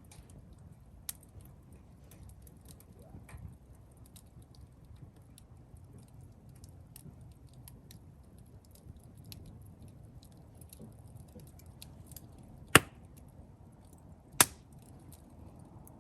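Wood campfire crackling, with scattered small ticks over a low steady rustle. Two loud sharp pops come near the end, about a second and a half apart.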